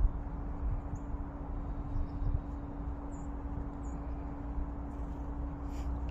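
A few faint, short, high bird chirps over a steady low hum and rumble, with a few low thumps in the first half.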